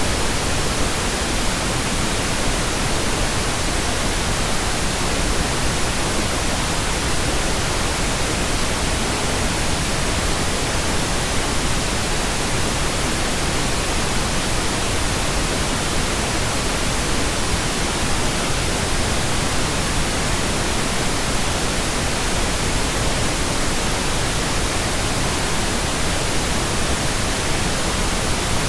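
Steady, unbroken pink noise generated in Audacity: an even hiss across all pitches with no changes or events.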